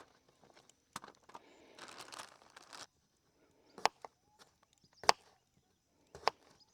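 Knife slicing baby potatoes and hitting a cutting board: three sharp chops about a second apart in the second half, after some rustling handling.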